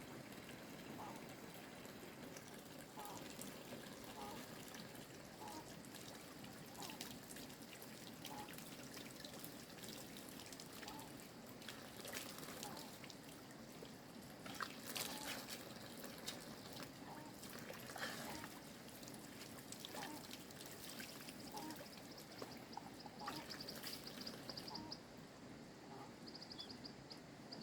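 Water trickling and pouring steadily, with scattered faint clicks and drips.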